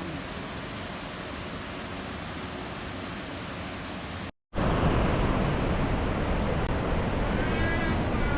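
Steady rush of the Iguazu Falls' falling water. It cuts out for a moment about four seconds in and comes back louder, and a few short high chirps sound near the end.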